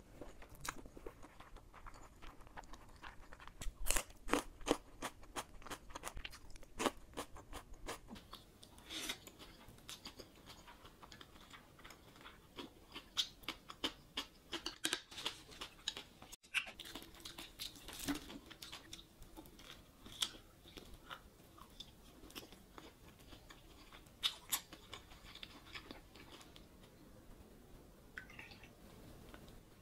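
Close-miked chewing and crunching of food, with many short wet mouth clicks. Near the end, soju is poured from the bottle into a shot glass.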